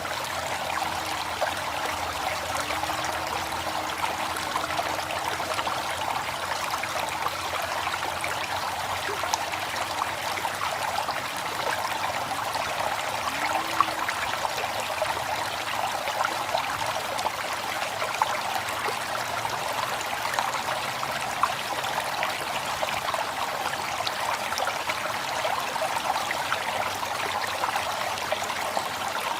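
River water flowing steadily over rocks, a continuous rushing with small splashes and trickles in it.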